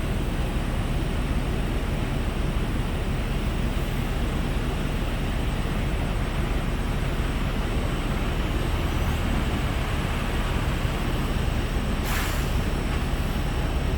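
Semi-truck's diesel engine running steadily at idle under a constant hiss, with a short, sharp hiss about twelve seconds in.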